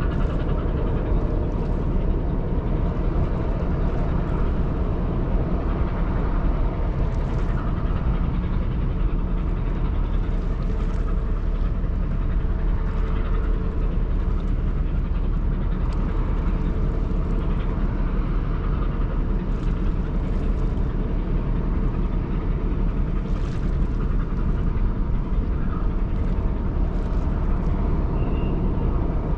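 Ro-Ro passenger ferry's machinery rumbling steadily, with a faint steady hum and short hissing gusts of wind every few seconds.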